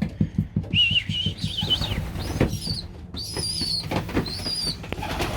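Young racing pigeons (squeakers) giving high, wavering peeps over a run of soft rapid taps in the first couple of seconds.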